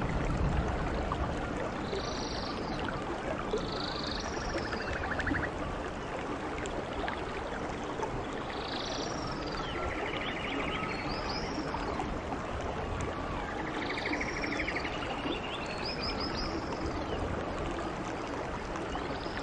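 Steady heavy rainfall, with short high chirping calls and buzzy trills from small animals coming every couple of seconds over it.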